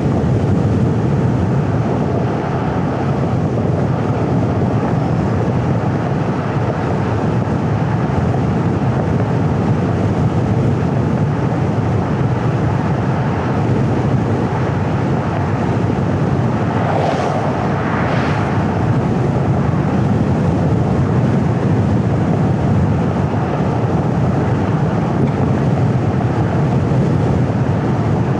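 Steady road and engine noise of a car driving, mostly a low rumble. A little past halfway, two vehicles whoosh past one after the other.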